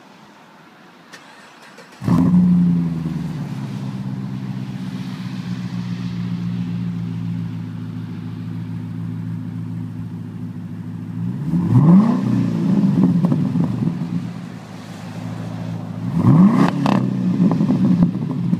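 Pontiac G8 GT's 6.0-litre V8 through an SLP aftermarket exhaust, loud. It starts suddenly about two seconds in, flares and settles into a steady idle, then is revved twice, the pitch rising sharply each time before falling back to idle.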